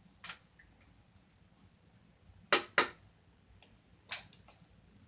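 A few short, sharp clicks and taps: a faint one near the start, a loud pair close together about two and a half seconds in, and another about four seconds in.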